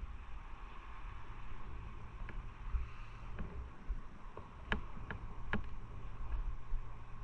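Motorcycle on the move: steady low wind rumble on the microphone mixed with engine and road noise, with a few sharp clicks close together about five seconds in.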